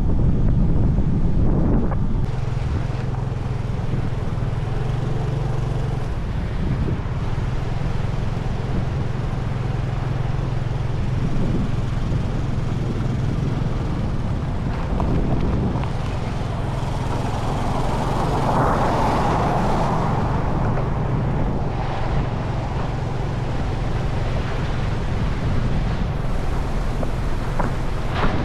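Motorbike riding along a road: a steady engine hum under continuous wind rushing over the microphone.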